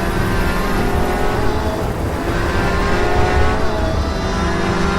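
High-revving sports car engine accelerating hard through the gears, its pitch climbing steadily and dropping at each upshift, about two seconds in and again near four seconds.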